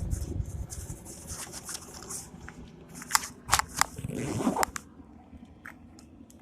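Close rustling and scuffing with several sharp clicks about three to four seconds in, then quieter.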